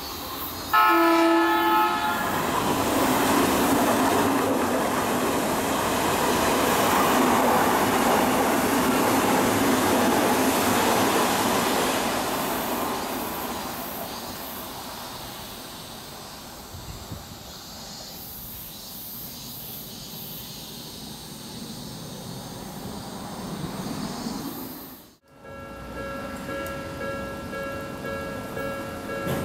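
An electric commuter train sounds a short horn blast about a second in, then runs past with a loud rush of wheel and running noise that builds and slowly fades. After a sudden cut near the end, faint steady tones ring.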